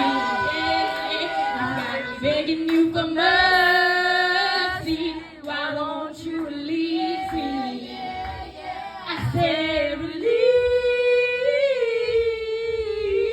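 A woman singing unaccompanied: long held notes that bend and waver with vibrato, in wordless runs rather than clear lyrics.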